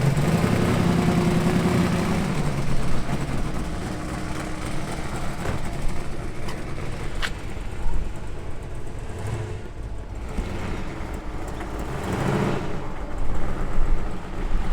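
A car engine running: a steady pitched hum in the first few seconds that then gives way to a lower, rougher rumble, with a louder swell near the end.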